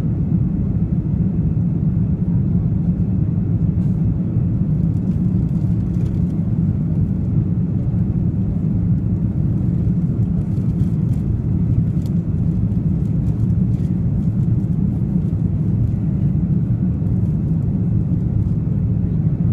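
Steady low cabin drone of an Airbus A330-300's engines and airflow, heard from inside the passenger cabin, with a few faint ticks over it.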